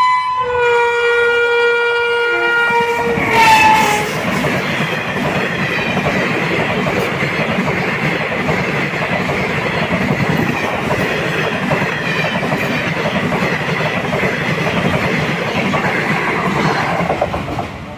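Express train locomotive's horn sounding a held two-note blast that stops about three and a half seconds in. Then the passenger coaches rattle past with a steady clickety-clack of wheels over the rail joints, fading near the end.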